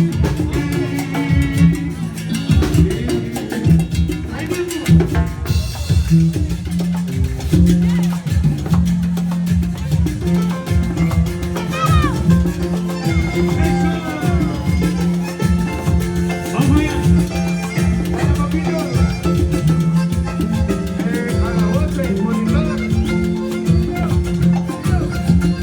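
A Latin band playing salsa-style music, with sustained low notes under busy, steady drums and percussion.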